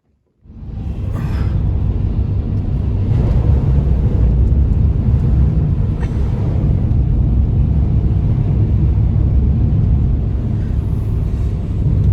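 Strong storm wind blowing steadily with a heavy, low rumble. It starts suddenly about half a second in.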